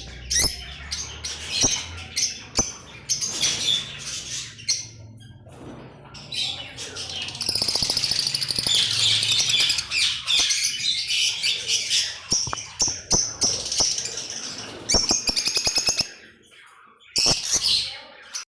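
A flock of small parrots chirping and chattering continuously, busiest about halfway through, with many sharp clicks mixed in.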